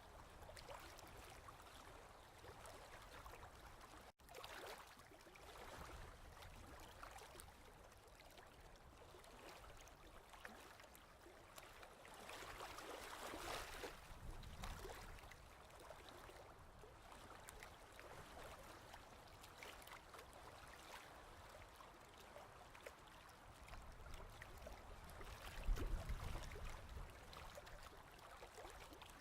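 Ocean waves washing in, soft and faint, with a wave swelling about halfway through and a louder one near the end.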